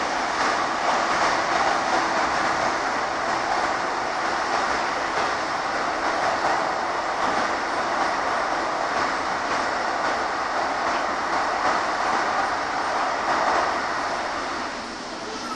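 Steady running noise inside the saloon of a Class 150 Sprinter diesel multiple unit on the move: wheels on the rails and the underfloor diesel engine. It eases off a little near the end.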